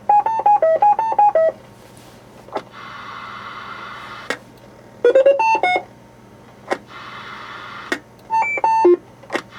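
Roger beep box playing short electronic beep tunes on mic key-up: three quick runs of stepped tones, one at the start, one about halfway, one near the end. Between them, sharp clicks and stretches of steady hiss like radio static.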